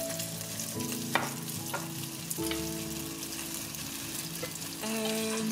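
Corn kernels sizzling in hot oil in a pan while a wooden utensil stirs them, with a couple of sharp clicks of the utensil against the pan. Background music plays underneath.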